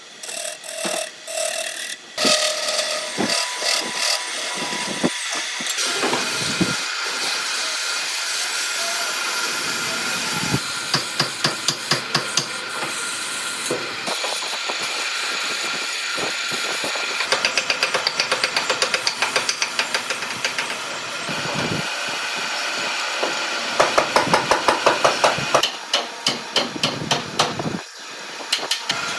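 Woodworking tool noise: a power tool running steadily, broken by several runs of rapid knocking, a few knocks a second.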